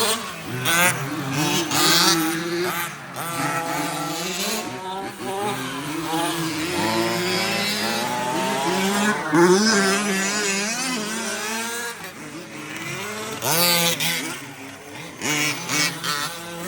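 Several remote-control 4WD race trucks running together, their motors whining and revving up and down as they race, with tyre noise and a few short louder bursts near the end.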